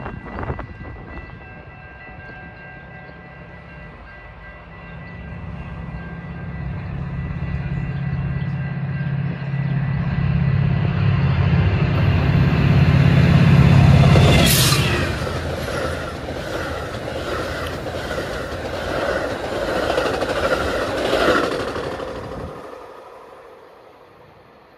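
Amtrak passenger train approaching and passing: the diesel locomotive's low rumble builds and is loudest as it goes by about 14 seconds in. Then the cars' wheels click rhythmically over the rail joints, fading away near the end.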